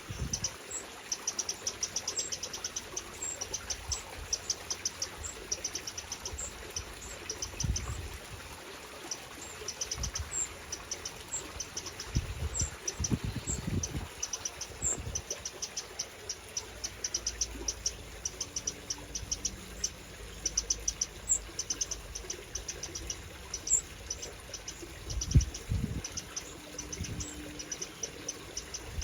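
Eurasian wrens calling: repeated trains of rapid, high, thin chip notes. There are a few low thuds now and then, the loudest near the end.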